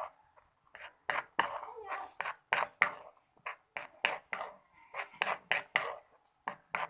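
Slime of white glue, liquid soap and activator being stirred in a container, the stirrer making a quick, irregular run of sticky clicks against the mixture and container.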